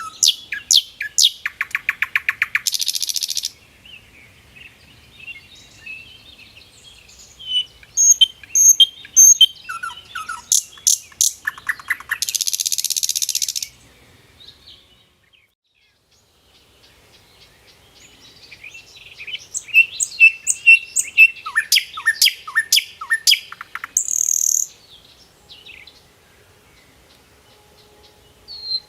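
Songbirds singing: bursts of high chirps and quick rapid-fire buzzy trills, with a few seconds' pause in the middle before the singing resumes.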